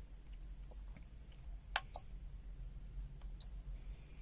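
Faint scattered clicks, a sharper pair just under two seconds in, and a short high blip near three and a half seconds: buttons or controls on test equipment being worked by hand.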